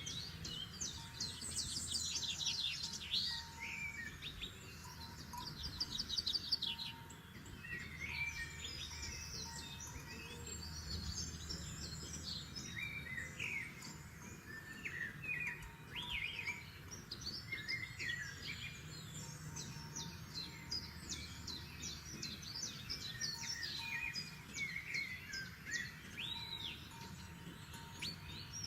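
A chorus of several forest songbirds singing, with overlapping chirps, whistled phrases and quick trills, over a low, steady background hush.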